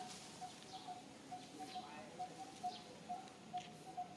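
Faint birdsong: one bird repeating a short note at a steady pitch three or four times a second, with scattered faint high chirps.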